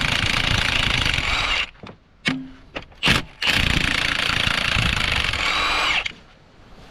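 A power tool running in two long bursts of about two seconds each, with two short blips between them, spinning out bolts that have just been cracked loose with an E-Torx socket. The motor winds down near the end.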